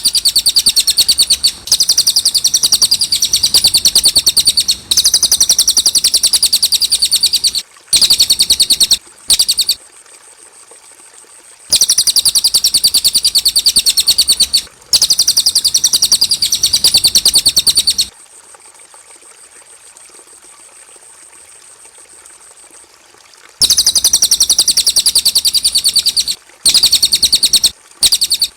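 Cililin bird singing: long, very rapid trills of high notes in bouts of one to three seconds with short breaks between them, and a longer pause of about five seconds in the middle.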